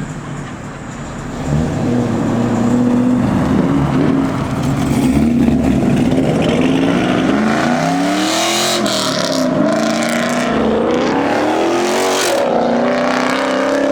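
Car engine revving, loud, its pitch climbing and dropping several times, with short hissy noise mixed in twice in the second half.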